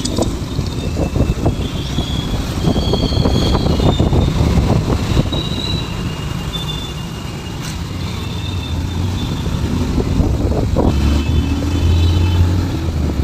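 Riding a motorcycle through road traffic: a steady rumble of engine and traffic noise, heavier in the low end near the end, with a few short high-pitched tones over it.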